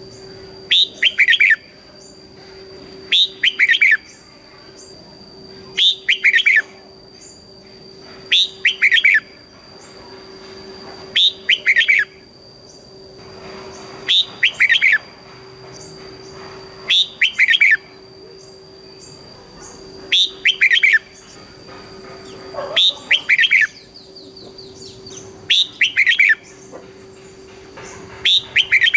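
Red-whiskered bulbul singing short, loud phrases of quick notes, repeated about every two and a half to three seconds, with a faint steady hum underneath.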